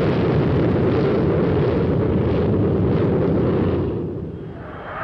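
Jet airliner engines at takeoff power, a steady low rumble that fades away about four seconds in.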